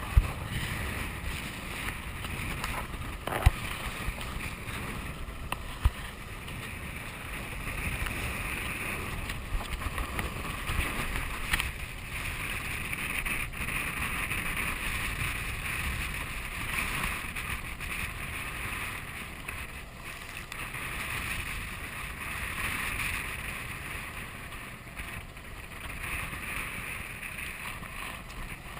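Sailboat underway in strong wind: wind buffets the microphone with a steady low rumble, over a rushing hiss of water. A few sharp knocks stand out in the first six seconds.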